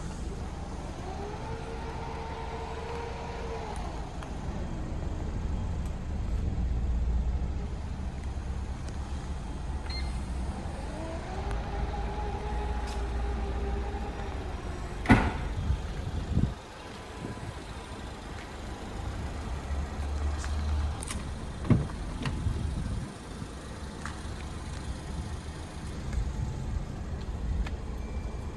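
A small electric motor on a car whines twice, each run lasting about three seconds and ramping up and down, over a steady low rumble. A couple of sharp clicks follow.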